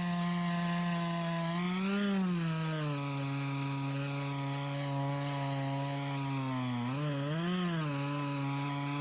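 McCulloch 610 two-stroke chainsaw running steadily under load as it rips lengthwise through a log in an Alaskan chainsaw mill. The engine pitch rises and falls briefly about two seconds in, then dips and rises again near the end.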